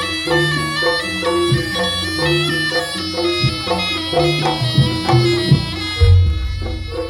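Jaranan ensemble music: a nasal, reedy slompret shawm plays a repeating melody over drums. A deep boom sounds about six seconds in.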